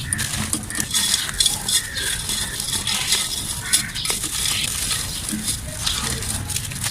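Dry, dusty mud chunks being crumbled and snapped: a dense run of small crunches and crackles.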